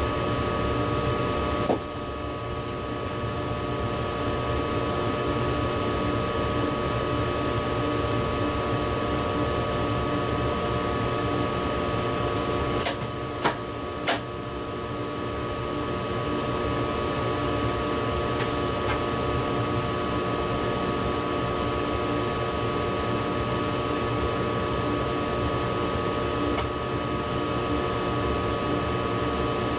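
Running noise heard inside the driver's cab of an ICE high-speed train under way: a steady hum with a constant high whine over it, and three sharp clicks in quick succession about halfway through.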